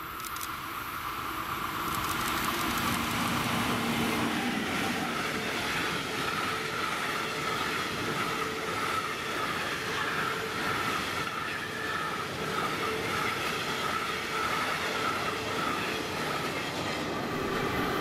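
Freight train of covered hopper wagons, hauled by a Class 159 Stadler Eurodual locomotive, passing close by. The sound swells over the first two seconds as the locomotive arrives, then the wagons roll past with a steady rumble and a high, even squealing tone from the wheels.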